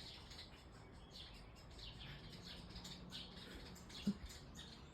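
Small birds chirping faintly, a run of short high chirps repeating several times a second. A single brief soft thump about four seconds in.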